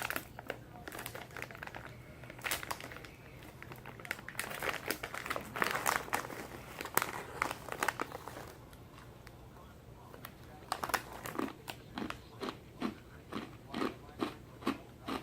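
Crunchy fried corn kernels being bitten and chewed, with a plastic snack bag crinkling. Near the end the crunches come in a fairly regular chewing rhythm.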